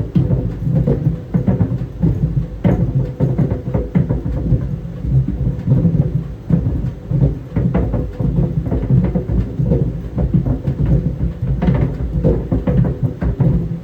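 Tennis balls tumbling in a running clothes dryer, thudding irregularly against the drum over the dryer's steady rumble and hum.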